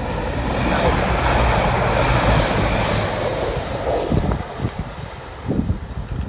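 Class 175 diesel multiple unit passing through the station at speed: a loud rush of train noise that builds to a peak a couple of seconds in and then fades away, with a few sharp clacks near the end.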